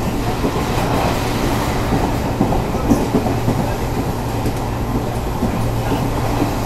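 ICF passenger coach running at speed: a steady rumble and rattle of wheels on rail with irregular clickety-clack from the rail joints, and a sharper knock about three seconds in.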